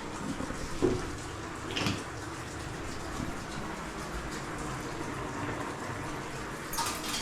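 Water running steadily, with a few light knocks of kitchen utensils about one second in, near two seconds and near the end.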